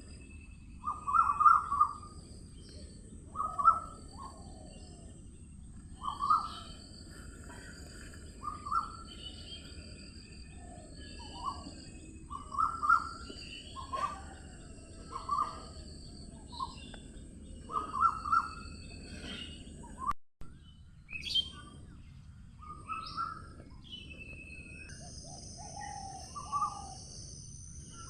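Birds calling: short, loud calls repeat every one to two seconds, mixed with smaller, higher chirps over a steady high hiss. The sound drops out briefly just after the twenty-second mark.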